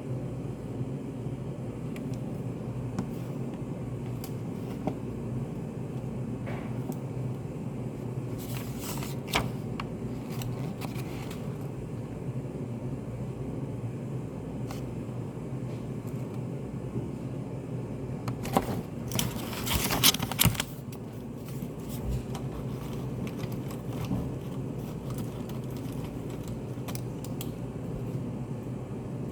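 Study cafe room ambience: a steady low hum of ventilation with scattered small clicks, and two short bouts of handling noise, one about nine seconds in and a louder one about twenty seconds in.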